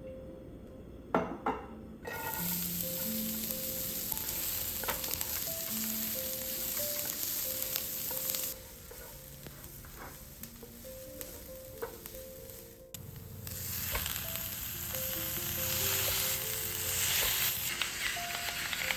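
Food sizzling and frying in a hot pan in two spells, each starting and stopping suddenly, after a couple of sharp clicks at the start. Soft background music plays underneath.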